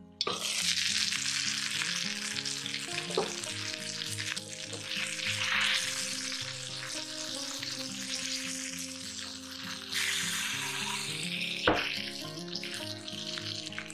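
Chicken leg pieces sizzling in hot oil on a non-stick tawa. The sizzle turns loud suddenly just after the start, as the lid comes off the pan. A couple of sharp knocks, about three seconds in and near the end.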